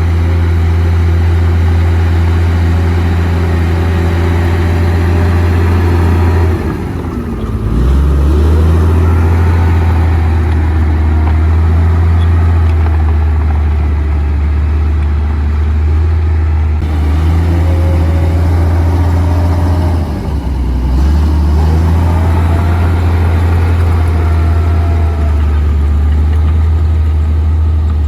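Komatsu D58P bulldozer's diesel engine running steadily under load with a deep drone. It dips briefly about seven seconds in and again about twenty seconds in, then picks back up, with faint rising and falling whines over the top.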